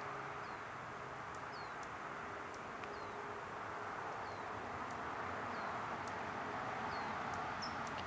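A bird repeating a short, high chirp that falls in pitch, about once a second, over a steady rushing background noise.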